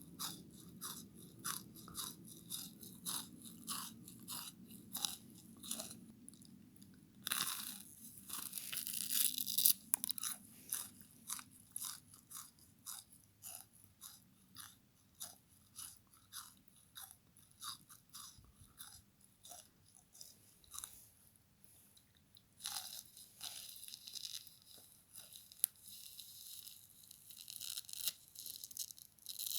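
Frozen bath sponge scrubber being chewed: crisp crunching bites about twice a second, with louder, denser crackling about a quarter of the way in and again near the end.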